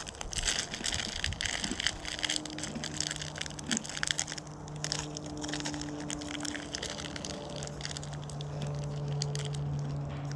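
Close-up crunching and chewing of a hard, crunchy Nature Valley granola bar, with many small crackles. From about two seconds in, a steady low hum sounds alongside.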